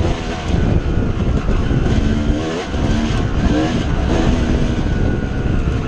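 Dirt bike engine revving under riding, its pitch climbing and dropping several times as the throttle opens and closes, over a heavy low rumble.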